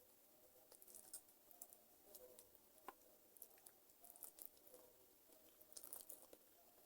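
Faint, wet chewing of chicken feet: irregular soft mouth clicks and squishes, with a few sharper ticks, over a faint low hum.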